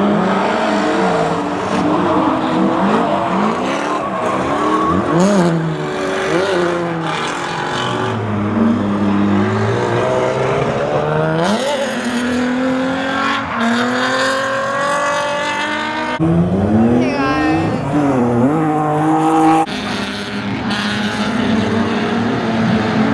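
Car engines revving hard, rising and falling in pitch again and again, with tyre squeal: cars doing burnouts and drifts.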